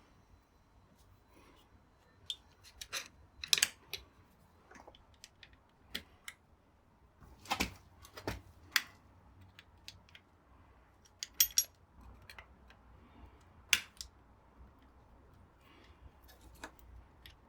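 Scattered sharp metallic clicks and clinks of hand tools and small metal parts being handled, single or in short clusters with pauses of a second or more between them.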